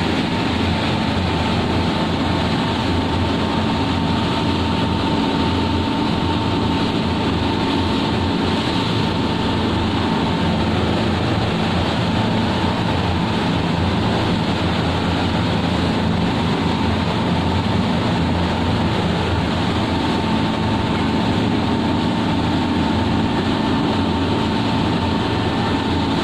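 A boat underway, its engine running steadily under a constant rush of noise.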